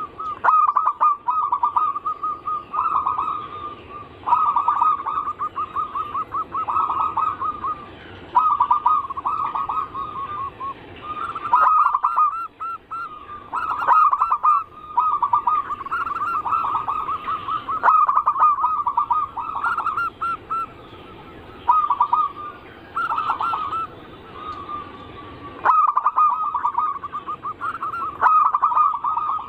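Zebra doves cooing: phrase after phrase of rapid, staccato coos on much the same pitch, with brief gaps between phrases.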